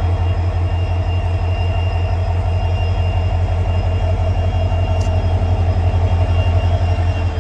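WDP4 diesel locomotive's EMD two-stroke V16 engine running with a steady, deep, pulsing hum.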